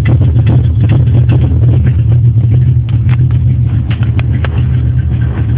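1983 Ford Mustang GT's 5.0 V8 idling through a custom exhaust, a steady low rumble.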